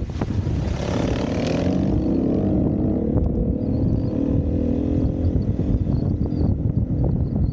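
Single-cylinder dirt bike engine on the throttle, its pitch climbing about a second in and then settling to a steady, wavering drone over a low rumble.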